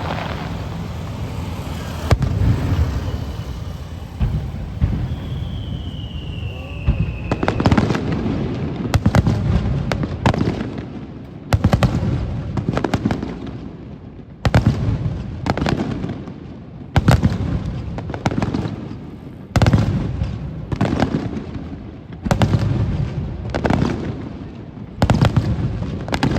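Aerial firework shells bursting overhead, each sharp bang trailing off in a rumbling echo. After one burst early on, they come in a rapid series of about one every one to two seconds from about a third of the way in. A short falling whistle sounds just before the series begins.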